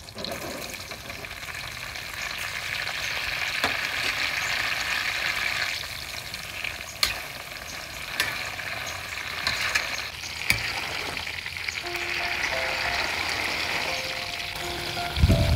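Fresh green peppercorn clusters frying in hot oil in a large metal wok: a steady sizzle that swells as they go in. A few sharp clinks come from a perforated metal skimmer against the pan as they are stirred.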